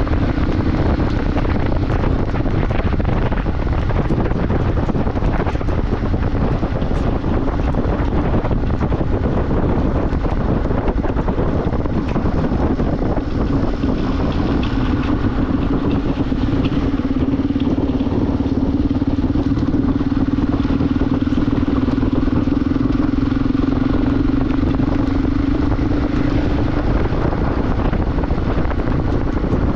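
Motorcycle engine running at a steady cruising speed, its hum holding one pitch and growing stronger through the middle stretch, under heavy wind rush on the microphone.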